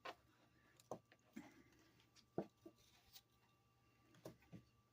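Faint, scattered taps of a kitchen knife cutting apple pieces on a cutting board, about half a dozen in all, over near silence.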